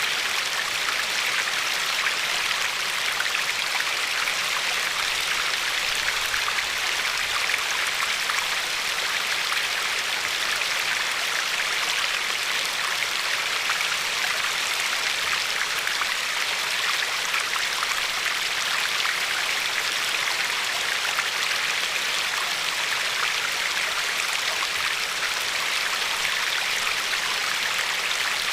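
River water flowing over a pebble shore: a steady rushing hiss, flecked throughout with small splashes and bubbles.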